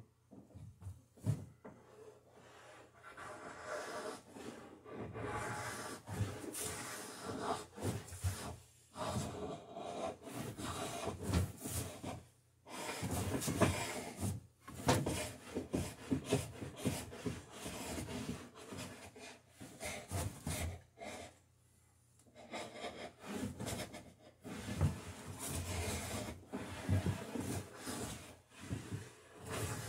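A bladed hand tool shaving wood in repeated strokes, cutting a bevel along a wooden boat rail, with brief pauses between runs of strokes and a longer pause about two-thirds of the way through.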